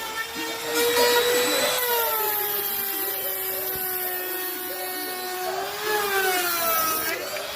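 High-speed electric power tool running with a steady whine. Its pitch sags for several seconds as it takes the load of cutting into the workpiece, picks up briefly near the end, then drops again.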